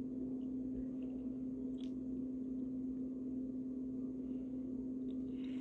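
Steady low background hum on one unchanging pitch, with a faint tap about two seconds in.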